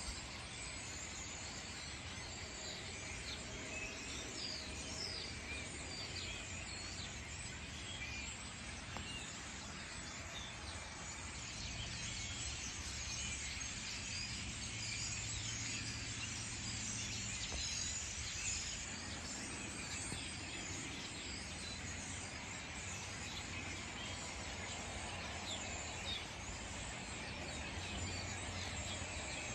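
A large flock of European starlings chattering in a tree: a steady din of many short, overlapping calls, over a low rumble.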